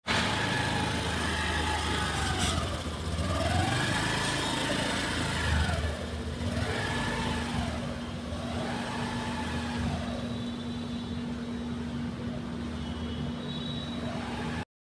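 Car engine revved up and down over and over, its pitch rising and falling about every two seconds over a low rumble, with a steady hum joining partway through. The sound cuts off suddenly near the end.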